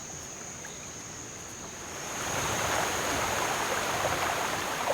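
Steady rushing of water, like surf or a river, that swells louder about two seconds in, over a constant thin high-pitched whine.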